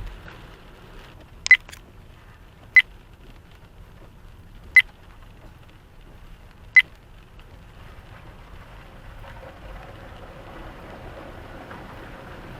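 Four short, high electronic beeps, about one and a half to two seconds apart: a low-battery warning from a device. They sound over the steady noise of a car driving on a wet road, heard from inside the cabin.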